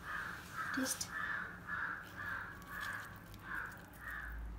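A bird calling over and over, about eight short calls in a row at roughly two a second.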